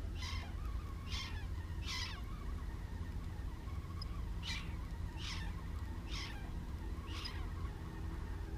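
A bird calling: a series of short calls that each fall in pitch, three near the start and four more about one a second from the middle on, over a steady low rumble.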